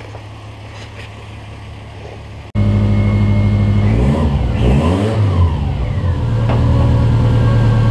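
Compound-turbocharged Subaru Forester flat-four engine idling. It becomes much louder and closer about two and a half seconds in, is revved up once briefly, and settles back to a steady idle.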